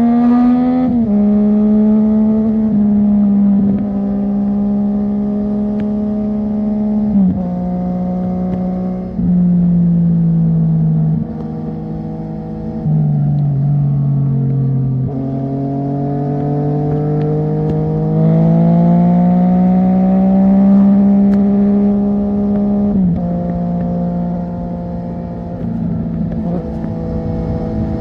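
Yamaha MT-09's three-cylinder engine through a de-catted IXIL full-system exhaust, ridden at highway speed. The engine note holds steady, falls in sudden steps with gear changes, then climbs slowly for several seconds under acceleration before dropping again with another shift.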